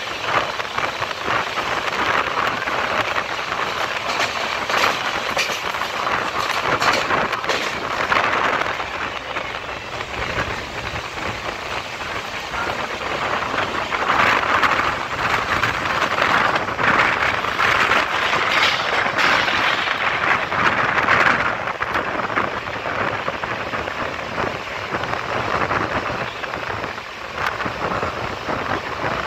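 Passenger train running at speed, heard from an open window: a steady rush of wind and the rumble of wheels on the track, louder for several seconds in the middle.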